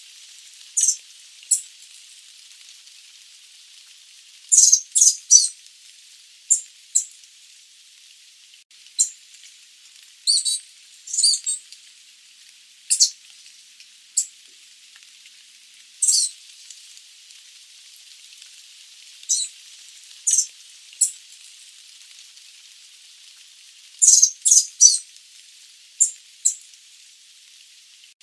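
Sooty babbler giving short, high squeaky call notes, some single and some in quick runs of three or four, spaced a second or two apart over a steady hiss.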